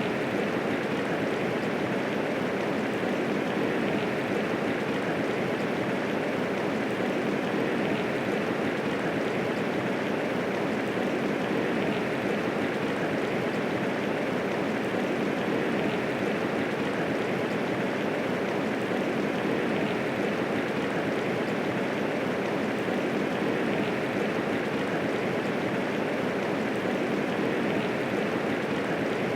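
Steady medium rainfall: an even hiss of many raindrops falling, with no thunder.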